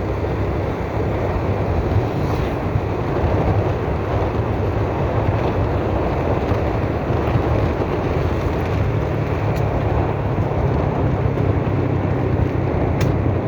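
A vehicle travelling along a road: steady engine and road rumble with wind rushing over the microphone, and a couple of faint clicks near the end.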